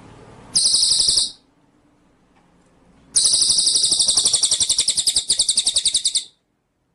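A songbird's rapid, high, buzzy trill, given twice: a short burst about half a second in, then a long pulsing trill of about three seconds that stops abruptly.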